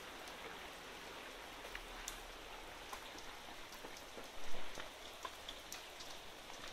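Heavy rain falling steadily, with scattered drops ticking close by and a brief louder patch of noise about four and a half seconds in.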